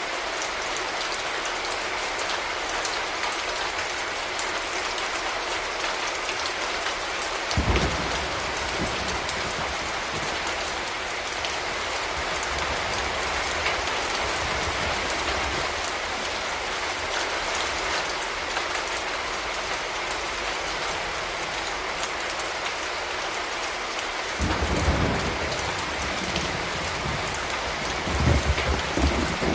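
Steady rain falling on hard surfaces, an even hiss. A low rumble starts suddenly about a quarter of the way in, and low rumbles come twice more near the end.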